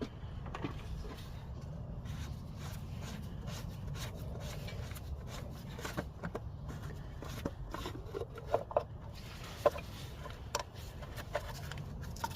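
Scattered light clicks and knocks, with a few short squeaks and rubs a little past halfway, from handling and removing the oil filter housing cap and filter cartridge, over a steady low hum.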